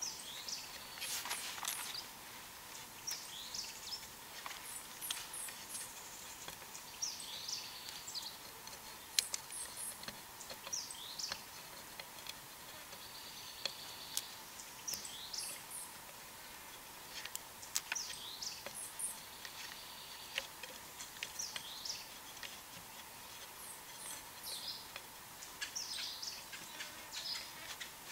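Woodland ambience: a songbird repeats short, high chirping phrases every couple of seconds over a faint steady insect hum, with a few sharp clicks.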